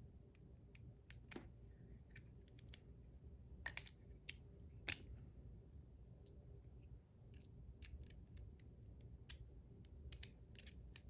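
Faint scattered metallic clicks and taps of small metal fidget-toy parts being handled and fitted together during reassembly, with two sharper clicks around the 4- and 5-second marks.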